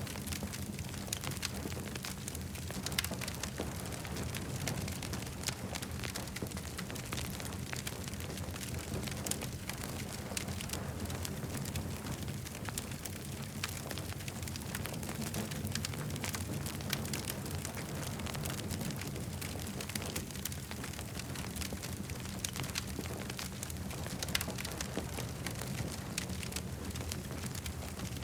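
Campfire burning steadily, with frequent sharp crackles and pops from the wood over a continuous low rumble.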